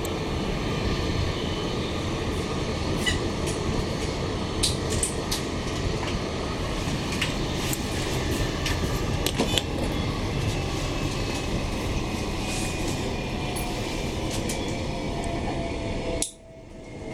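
Inside a Bombardier-built Queensland Rail NGR electric multiple unit running along the track: a steady rumble of wheels and running gear with scattered sharp clicks. Over the last few seconds a faint whine slides slowly down in pitch as the train slows for the next station, and the sound drops out briefly just before the end.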